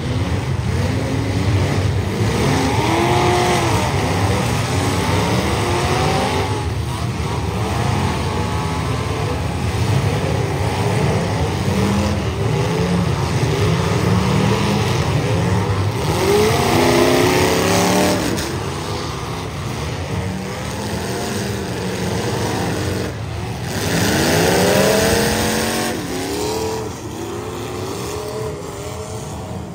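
Several demolition derby cars' engines revving hard, their pitch repeatedly climbing and falling as they accelerate into one another. Three loud revs stand out, and it eases off near the end.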